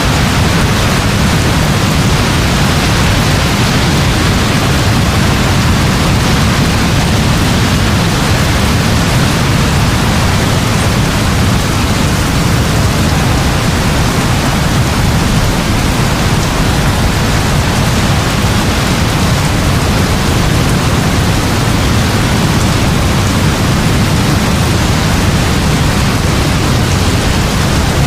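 Steady heavy rainfall: an even, unbroken hiss with a strong low rumble underneath.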